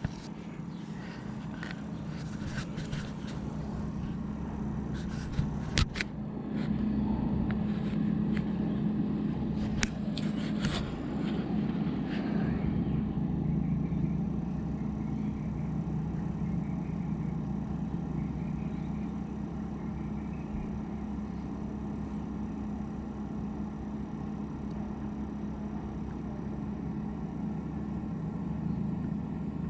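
Kings 75 L dual-zone 12 V compressor fridge running with a steady hum. A few clicks and knocks come in the first ten seconds or so.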